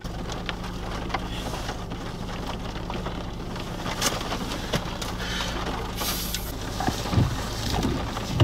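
A vehicle's engine idling with a steady low hum, heard from inside the car, with rain spattering and ticking on the windshield.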